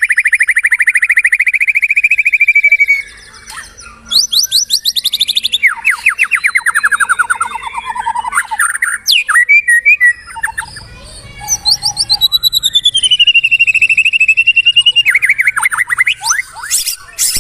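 White-rumped shama singing vigorously and without pause. It opens with a long, rapid, even trill, then moves through fast descending trills and varied whistled phrases, with a long falling whistle in the middle.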